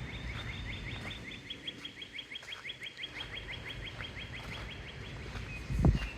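A songbird singing a long trill of quick rising notes, about six a second, for about five seconds, over a low rumble of wind. Near the end there is one brief, loud, low thump.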